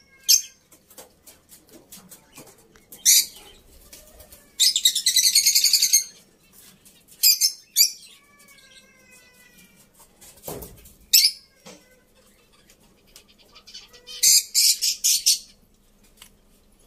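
Birds calling in separate bursts of shrill, high chirps, about seven in all. The longest is a rapid trill of about a second and a half, with faint whistled notes in between.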